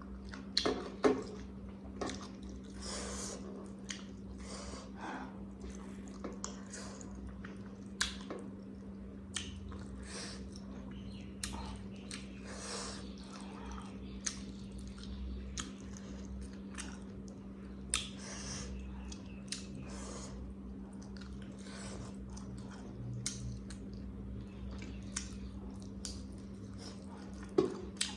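Close-up mukbang eating sounds: chewing, with wet mouth noises and scattered sharp clicks at irregular intervals. A steady low hum runs underneath.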